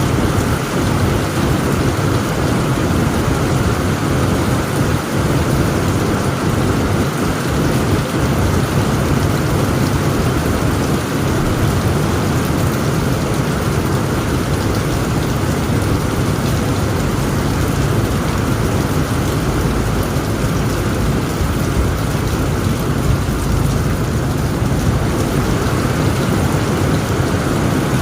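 Heavy rain pouring steadily onto a tent roof, with a continuous low rumble underneath.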